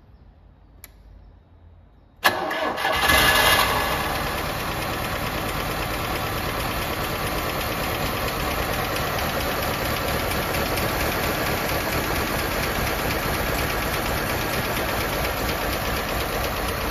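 Citroën DS19's four-cylinder engine cold-starting: it fires suddenly about two seconds in, flares up briefly, and settles into a steady idle.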